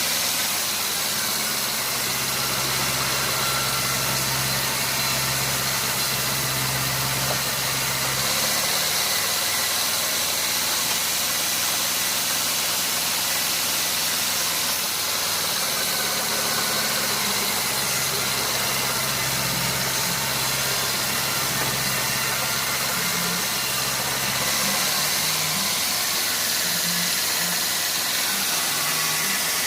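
Sawmill machinery running steadily: an engine hum that strengthens and eases at times, under a loud, even hiss.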